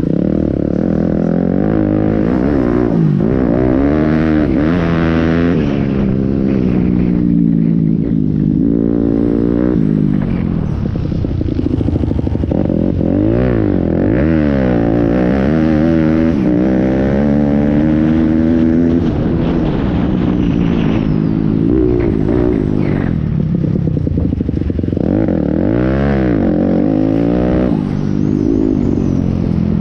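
Pit bike engines revving up and down over and over as the bikes accelerate and shift, more than one engine at once, their pitches crossing.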